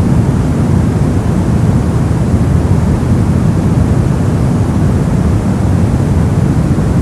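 Brown noise: a steady, even hiss of random noise weighted toward the low end, a deep rumble with no pitch and no events.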